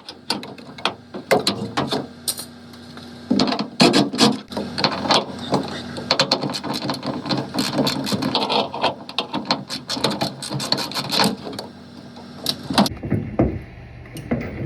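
Irregular clicks, knocks and rattles of hand work on a front-load washer's drain pump: plastic and metal parts being handled and loosened as the pump is removed.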